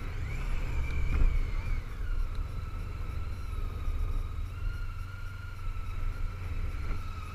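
Honda ST1300 motorcycle at riding speed, heard from a helmet camera: a heavy low wind rumble with a steady high whine over it, the whine rising briefly in the first second or two.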